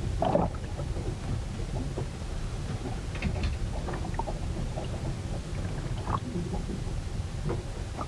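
Storm aboard a ship: a steady low rumble of wind and water, with scattered short knocks and creaks.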